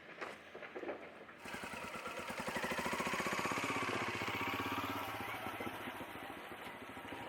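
Benelli Imperiale 400 motorcycle's single-cylinder engine starting up after a few light clicks, about a second and a half in, then running with an even pulsing beat that swells, holds, and eases slightly toward the end.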